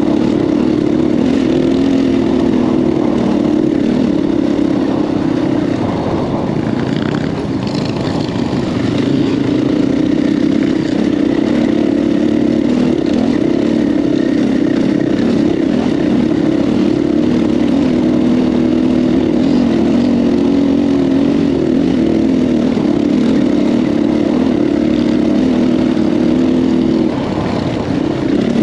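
KTM 500 EXC-F's single-cylinder four-stroke engine running as the bike is ridden, its note rising and falling with the throttle. It eases off briefly about a quarter of the way in and again just before the end.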